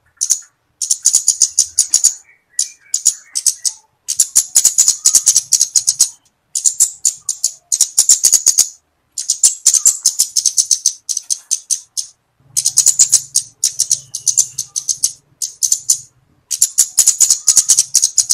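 Flowerpecker (cabe-cabean) calling: fast runs of high, sharp ticking notes in bursts of one to three seconds, broken by short pauses, about seven bursts in all.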